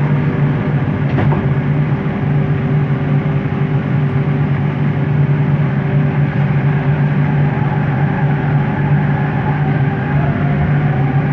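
Bombardier Innovia ART 200 train heard from the cabin while running: a steady hum from its linear induction motor and running gear over wheel-and-track noise. A fainter whine rises in pitch from about seven seconds in.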